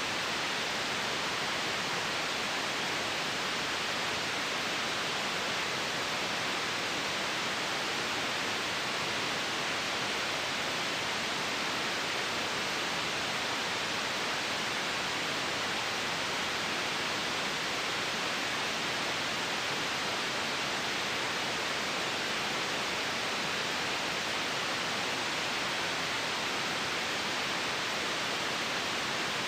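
Steady white noise: an even, unbroken hiss with no change in level, weighted toward the upper-middle range.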